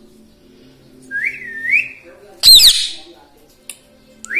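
Indian ringneck parrot giving a whistle that rises twice, then one loud, harsh squawk about two and a half seconds in, and starting another rising whistle near the end.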